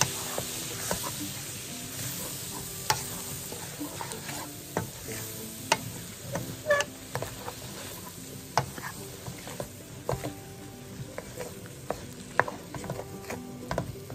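Taro stems, onion and garlic sizzling in butter in a hot pan, with a utensil stirring and scraping and knocking sharply against the pan every second or two.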